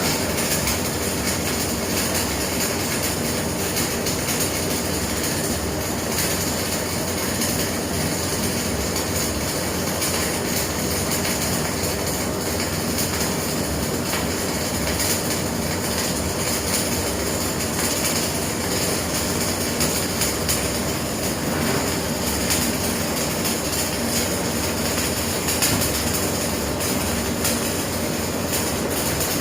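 Electric arc welding running one continuous bead on a corner weld: a steady crackling hiss with no break.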